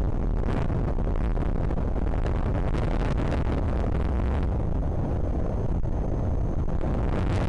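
Strong wind buffeting a nest camera's microphone: a loud, steady low rumble with gusting, rushing noise over it.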